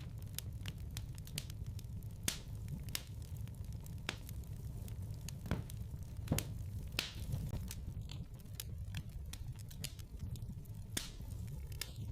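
Wood fire burning in a fireplace: irregular sharp crackles and pops over a steady low rumble of the flames, with a few louder pops about two, seven and eleven seconds in.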